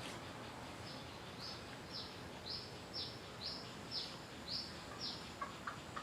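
A wild bird calling a series of about nine short, high, downward-slurred notes, roughly two a second, over a steady outdoor background hiss. A few short clicks follow near the end.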